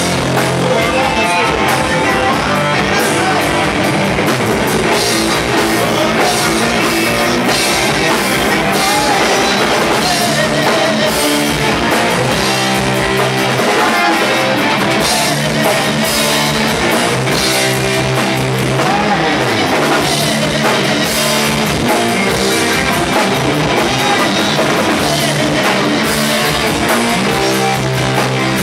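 Live rock band playing, with electric guitar and drum kit, loud and steady.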